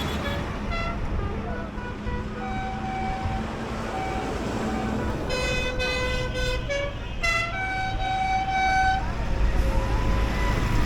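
Horns on passing procession trucks sounding a string of toots at changing pitches, the loudest about halfway through, over the low rumble of tractor and truck engines.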